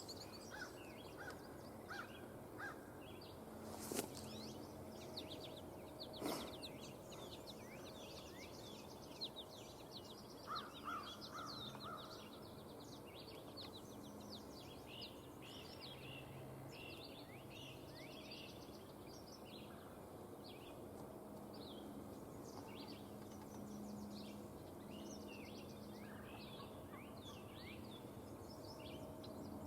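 Faint chorus of songbirds, many short chirps and trills overlapping throughout, with two sharp clicks about four and six seconds in.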